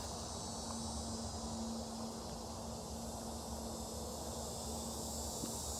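Steady outdoor background of insects trilling, with a faint steady hum underneath.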